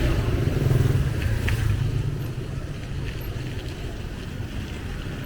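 Low rumble of a motor engine close by, loudest about a second in and then easing off.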